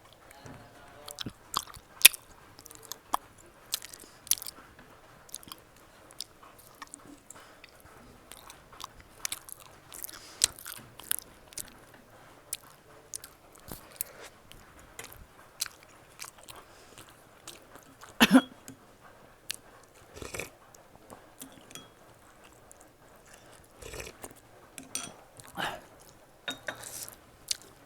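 Close-up mouth sounds of a person eating a steamed beef momo dumpling: chewing with many short, irregular wet smacks and clicks.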